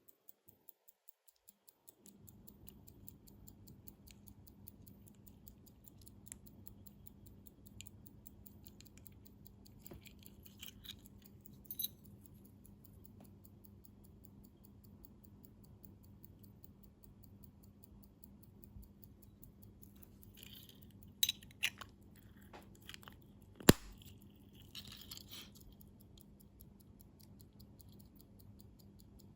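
Faint, fast, even ticking of a hand-wound Enicar pocket watch movement, with scattered small clicks and taps of metal tools on watch parts; the clicks bunch up in two spells, the sharpest one about two-thirds of the way through.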